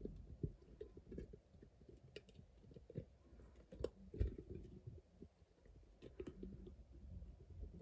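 Irregular faint clicks and soft knocks over a low rumble, with a few sharper clicks about midway.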